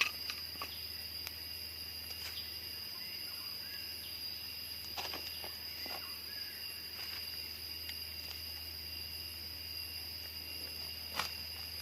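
Steady high-pitched drone of jungle insects, several thin tones held level, with scattered light clicks and knocks.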